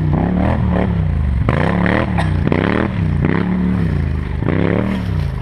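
4x4 ATV engine running, its revs rising and falling over and over, with clattering knocks mixed in.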